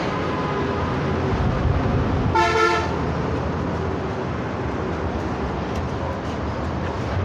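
A vehicle horn gives one short toot about two and a half seconds in, over a steady low rumble of road traffic.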